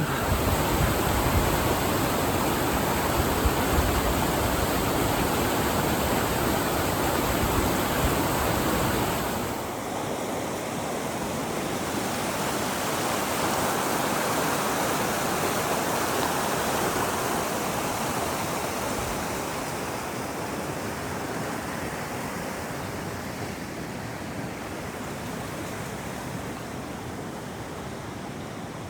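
Rushing creek water, a steady noise that drops somewhat in level about ten seconds in.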